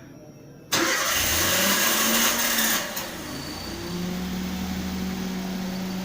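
Car engine started remotely by a phone-app IoT controller: it fires up suddenly less than a second in, runs fast and loud for about two seconds, then drops to a steady idle.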